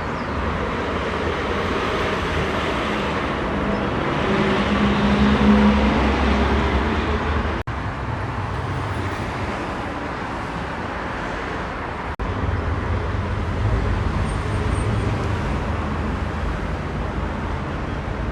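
Road traffic passing: vehicle engines and tyre noise, swelling loudest around five to six seconds in as a vehicle goes by close. The sound breaks off for an instant twice, near eight and twelve seconds in.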